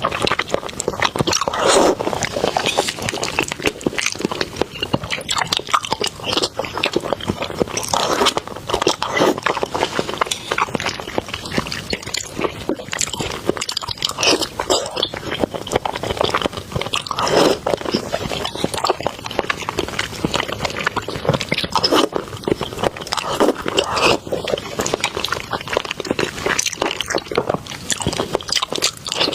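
A person chewing and biting food close to the microphone, with wet, irregular crunching and smacking throughout.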